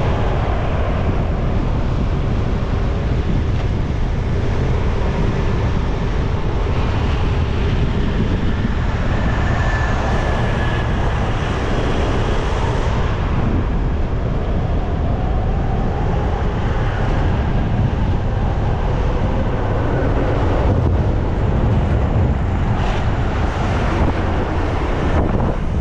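Steady wind rush on the microphone from riding a motorcycle, with road and vehicle noise underneath and a few faint passing tones.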